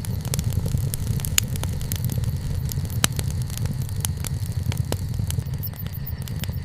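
Wood campfire burning: frequent small crackles and snaps over a steady low rumble, with two sharper pops about a second and a half in and three seconds in.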